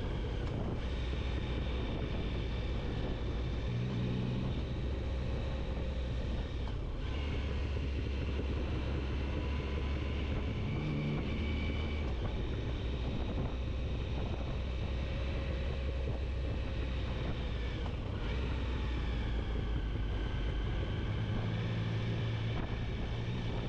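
Motorcycle engine running steadily under way, with wind and road noise on the microphone; the engine note shifts a few times as the revs change.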